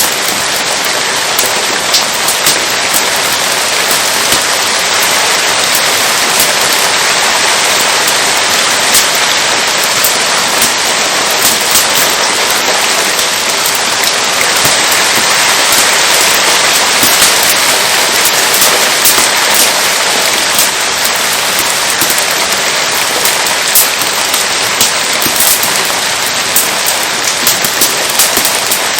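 Steady rain falling, with frequent sharp crackles and pops from a burning wood fire scattered through it.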